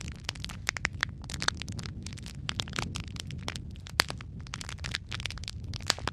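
Wood fire in a fireplace burning steadily: a low rumble of flame under frequent sharp crackles and pops from the burning logs, one pop standing out about four seconds in.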